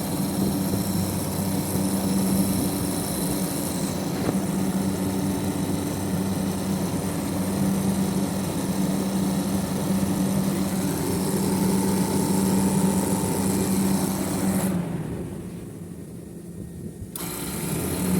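Newly fitted rewound three-phase compressor of a 20-horsepower split air conditioner running with a steady mechanical hum. The higher part of the sound drops away and the level dips for about two seconds near the end, then returns.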